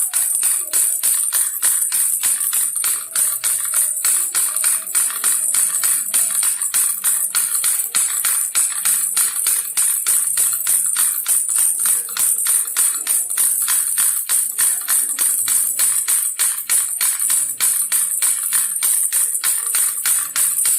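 Baby rattle shaken steadily and fast, a bright jingling rattle of about four to five shakes a second.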